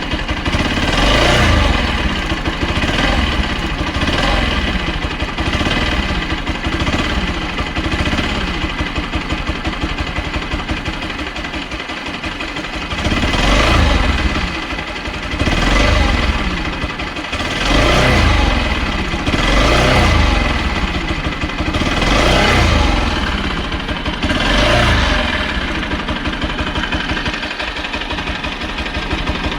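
Bajaj Pulsar NS200's single-cylinder engine idling and revved up several times, mostly in the second half, with the ticking, chattering noise from the engine that the owner cannot trace.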